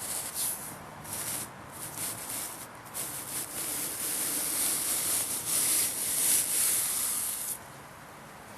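A 40 mm plastic waste pipe being twisted and drawn out of packed sawdust: a rough scraping hiss in uneven strokes that turns steadier and louder, then stops suddenly about seven and a half seconds in. The pipe leaves a clean air channel through the sawdust fuel.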